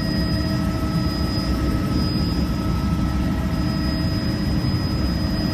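Small tour helicopter in flight, heard from inside the cabin: a steady, dense rotor and engine rumble with a thin, constant high whine above it.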